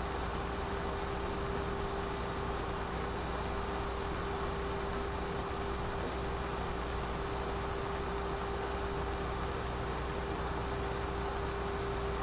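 Steady flight-deck noise of a Boeing 737 in the climb after takeoff: an even rush of air and engine noise with a low rumble and a steady hum tone through it.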